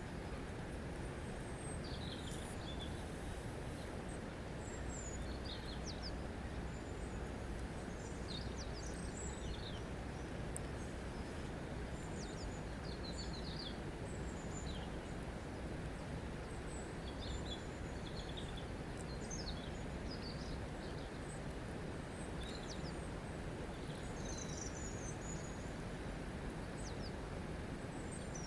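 Small birds chirping and twittering, short high calls scattered throughout, over a steady low background rumble.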